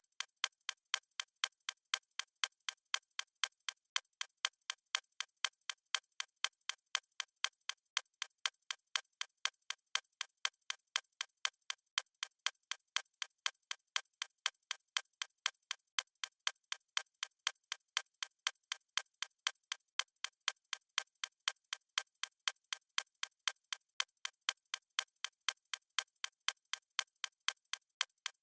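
Fast ticking sound of a stopwatch: crisp, evenly spaced clicks, several a second, in a steady unbroken rhythm.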